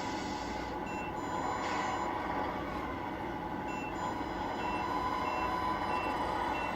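An RC truck's sound unit plays a steady truck engine sound. From about four seconds in, short reversing beeps repeat at an even pace, a little more than one a second.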